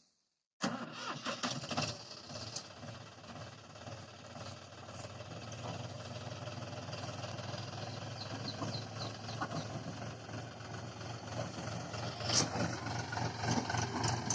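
John Deere 5050D tractor's three-cylinder diesel engine running under load. It cuts in abruptly about half a second in and grows louder towards the end, with a sharp click late on.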